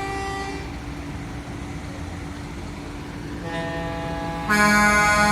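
Truck air horns sounding long held chords. A softer chord fades out early on, a new one swells up later, and a much louder chord starts sharply near the end.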